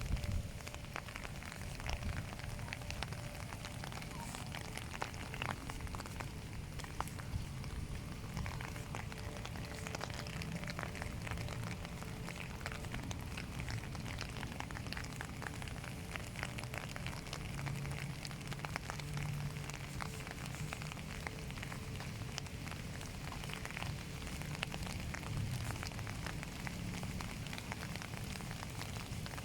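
Steady rain falling, heard as a continuous hiss full of small, sharp drop ticks, with a low rumble underneath.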